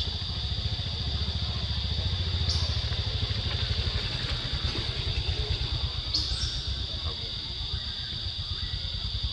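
A steady, high-pitched insect drone, with a low, fast throbbing rumble underneath and two brief high chirps, about two and a half and six seconds in.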